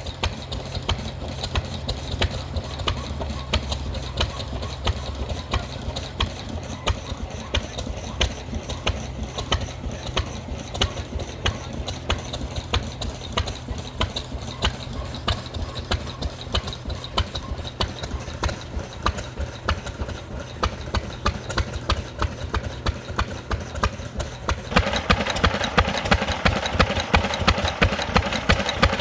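Lister stationary engine running steadily at low speed with an even beat of firing strokes, about two a second. About 25 seconds in, the sound becomes louder and sharper.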